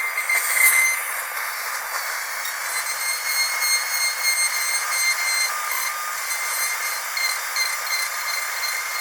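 Dentist's drill whining steadily at a high pitch over a hiss, swelling briefly louder in the first second.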